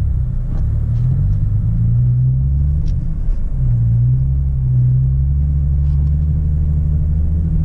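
Semi truck's diesel engine running under way, a steady low drone heard from inside the cab; its pitch dips briefly and picks up again about three seconds in.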